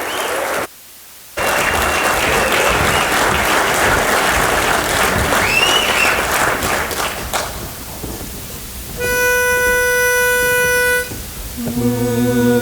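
Audience applauding with a few whistles, briefly cutting out about a second in. Then a pitch pipe sounds one steady note for about two seconds to give the key, and near the end the a cappella barbershop quartet comes in on a held chord.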